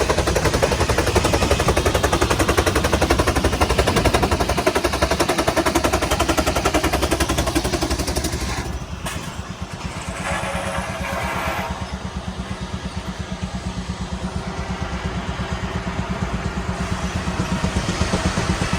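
Vintage engine running steadily with a fast, even beat; it drops in level for a few seconds around the middle, then picks up again.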